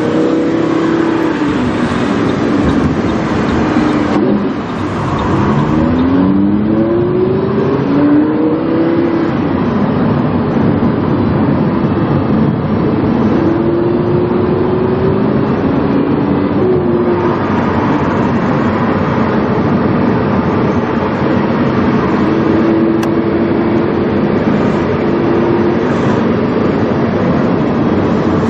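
Lamborghini Huracán's 5.2-litre V10 through a PowerCraft aftermarket exhaust, heard onboard while driving. The engine pitch climbs repeatedly through the gears about five to nine seconds in, then holds steadier with small rises and drops as it shifts and cruises.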